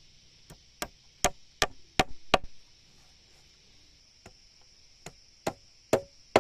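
Sharp blows of a tool striking wood: six quick strikes about three a second, a pause of a couple of seconds, then four more.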